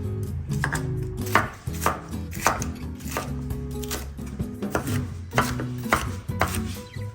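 Kitchen knife chopping food on a cutting board in steady, even strokes, a little under two a second, over soft background music.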